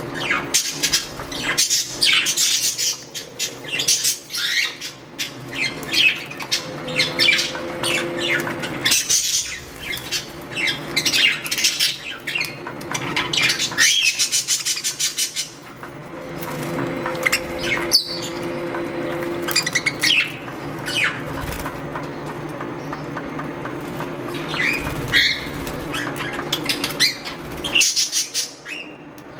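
Budgerigars chirping and squawking in many short, quick calls, with bursts of wing flapping as they bathe.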